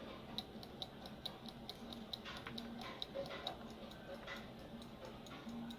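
Faint, quick ticking of a small mechanism, about four to five ticks a second at first, then sparser and uneven.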